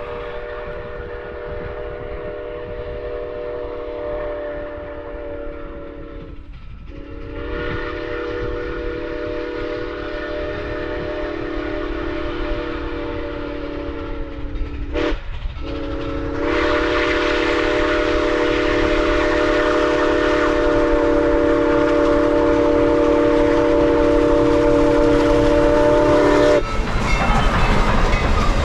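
Steam locomotive 148's whistle sounding several tones at once in the grade-crossing pattern: long, long, short, long. The final long blast cuts off near the end, over the rumble and wheel clatter of the train drawing closer.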